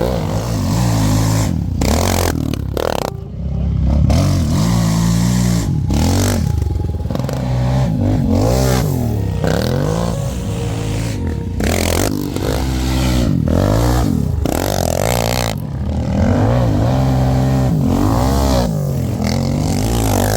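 Quad (ATV) engine revving up and down over and over as it rides over rough ground, with knocks and rattles mixed in.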